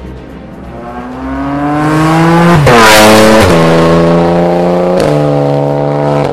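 A car engine revving up, its pitch rising for about two seconds, then dropping in steps like gear changes and holding steady. It is loudest about three seconds in and stops abruptly.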